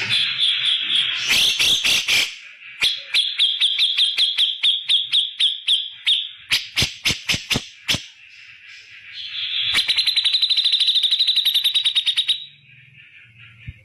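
Cucak jenggot (grey-cheeked bulbul) giving loud, rapid-fire calls: runs of sharp repeated notes and trills, then a fast chattering rattle of about ten notes a second from near the ten-second mark, ending suddenly a little after.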